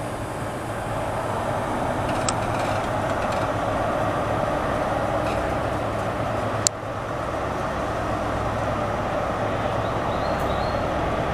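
GWR passenger train pulling out of the station, its engine and wheel noise building steadily. A single sharp click comes about two-thirds of the way through.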